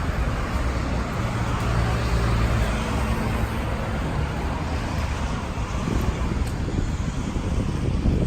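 Road traffic on a rain-wet street: car tyres hiss on the wet road over a low rumble, and the hiss fades out after about five seconds.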